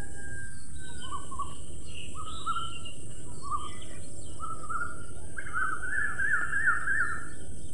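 Songbirds singing in a garden: repeated short chirps and whistled notes, turning into a quicker run of notes over the last few seconds, over a steady high hiss.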